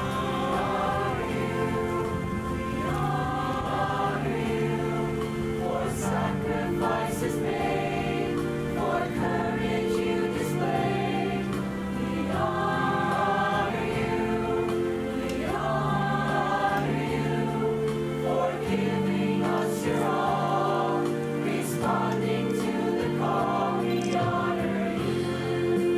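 A chamber choir singing a slow piece in several parts, holding long sustained chords.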